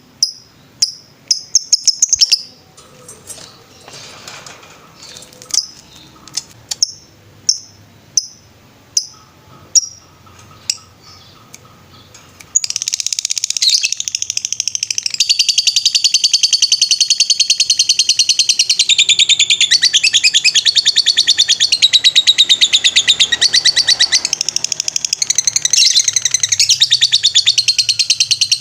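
Lovebird singing: single sharp high chirps spaced about half a second apart, then from about twelve seconds in a loud, unbroken rapid trill, the long 'ngetrek' song that keepers prize.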